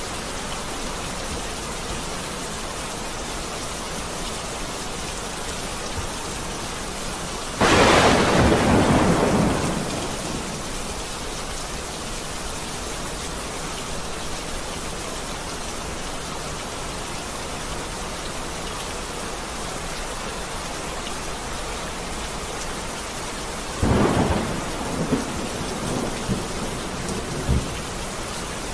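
Steady rain with two claps of thunder. The first breaks about a quarter of the way in and rumbles away over a couple of seconds. The second comes near the end, followed by a few smaller rumbles.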